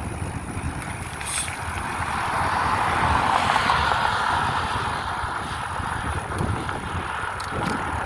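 Wind buffeting the microphone during a bicycle ride. A passing vehicle's road noise swells to a peak in the middle and fades again.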